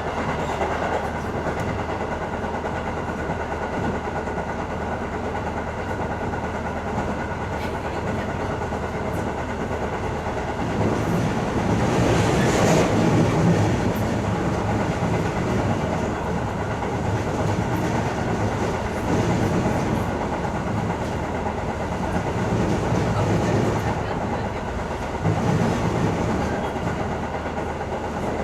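Cabin running sound of a KiHa E120 diesel railcar at speed: the steady drone of its underfloor SA6D140HE-2 (DMF15HZ) six-cylinder diesel engine and hydraulic transmission, mixed with wheel-on-rail rumble. The noise swells louder for a few seconds about eleven seconds in, with smaller swells later.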